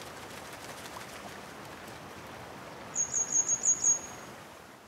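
A small bird chirping a quick run of about six high notes about three seconds in, over a steady soft outdoor hiss that fades out near the end.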